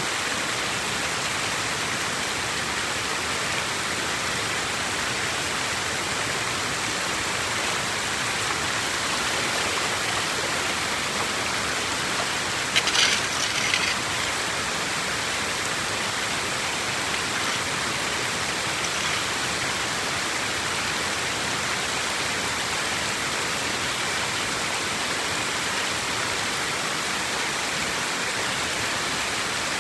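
Steady rush of flowing water, with a short cluster of sharp knocks or splashes about thirteen seconds in.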